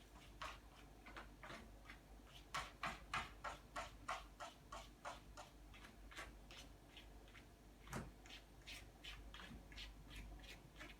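A run of faint, irregular clicks and taps, densest a few seconds in, with one sharper knock about eight seconds in.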